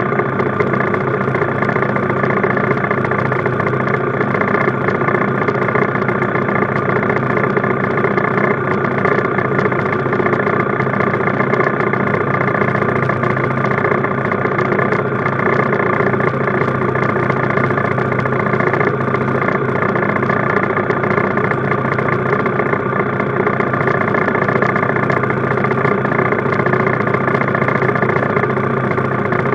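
Minibike engine running steadily at an even, unchanging pitch.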